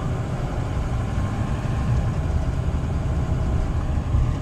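Steady low engine and road rumble heard from inside a vehicle's cabin in slow traffic.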